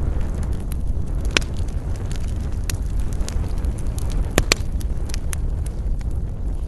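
Wood fire burning in a fireplace: a steady low rumble with scattered sharp crackles and pops, the loudest a quick double pop about four and a half seconds in.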